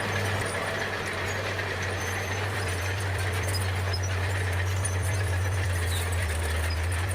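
Bulldozer's diesel engine running steadily, a continuous deep drone.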